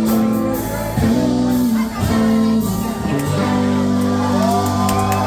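Live band playing a slow country-rock ballad in an instrumental passage: electric guitar and bass holding sustained notes that change about once a second.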